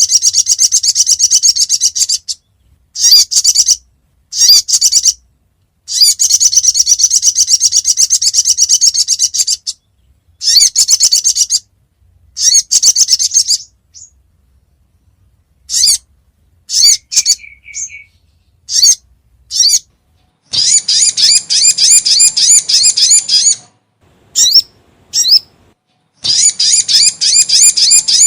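Lure recording of the sogon (sogok ontong) bird, a spiderhunter, calling. It gives rapid trains of high, sharp chips, many per second, in bursts of one to four seconds separated by short pauses.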